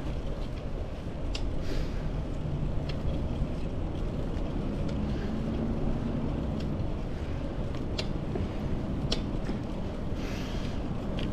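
Bicycle riding along a road: a steady low rumble of tyres and wind on the microphone, with scattered sharp clicks and rattles. There are two brief hissing swells, about a second and a half in and near the end.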